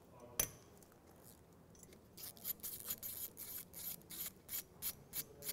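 Ratchet wrench clicking about four times a second as the 10mm cylinder head bolts of a Honda PA50 moped engine are undone, after a single click about half a second in.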